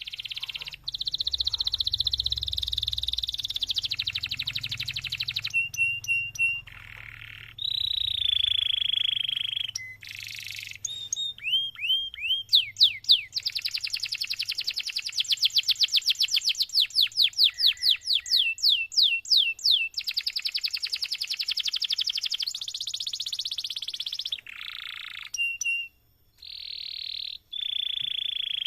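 Domestic canary in full, continuous song. It runs through trilled phrases and short clear whistled notes, then a few rising sweeps, then a long fast roll of rapidly repeated notes in the middle, with brief pauses between phrases.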